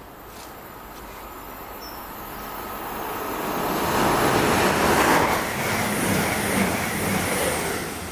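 East Midlands Trains Class 222 Meridian diesel multiple unit approaching and passing through the station at speed. Its engine and wheel-on-rail noise swells over about four seconds to a loud, steady noise as it goes by close to the platform.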